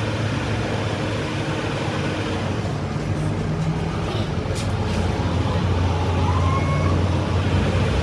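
An engine running steadily with a low hum, growing slightly louder in the second half.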